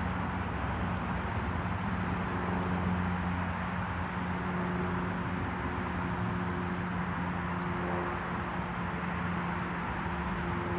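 Steady outdoor background rumble with a low, even engine-like hum, as of vehicle traffic.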